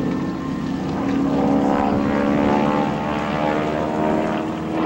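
SNJ (T-6 Texan) aircraft flying overhead, its Pratt & Whitney R-1340 Wasp radial engine and propeller droning steadily. The engine note rises slightly in pitch.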